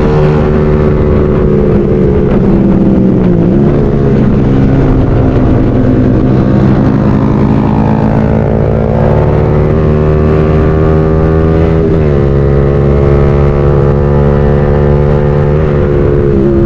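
Motorcycle engine running while riding, its pitch rising and easing with the throttle and dropping sharply at gear changes: about three and a half seconds in, around twelve seconds, and briefly near the end.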